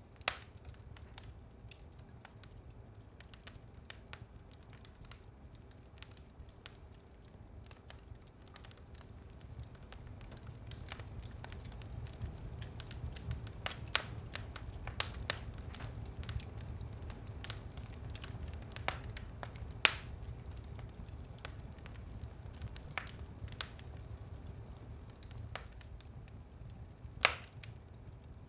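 Wood fire in a fireplace crackling: irregular sharp pops and snaps over a low, steady rumble. The pops grow busier from about ten seconds in, with the loudest snaps about twenty seconds in and again near the end.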